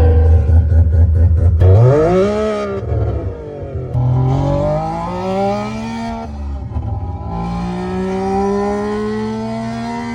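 Rotary engine idling, then revved: a quick blip about two seconds in, followed by two slower climbs in revs that each cut off abruptly.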